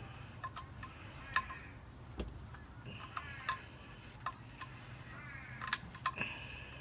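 Engine oil dripping from the open sump drain hole into a drain pan: irregular single drips, heard as sharp ticks, as the old oil finishes draining.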